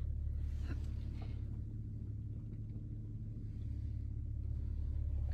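Low, steady hum of a 2018 Audi Q7's engine idling, heard from inside the cabin, with a couple of faint handling clicks early on.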